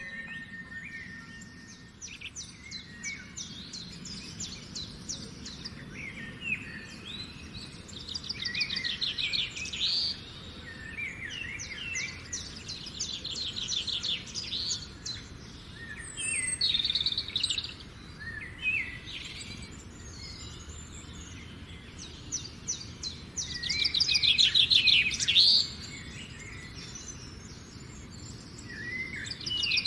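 Several birds singing and calling, with fast, rapidly repeated chirping trills and short sweeping notes, over a low steady background hum.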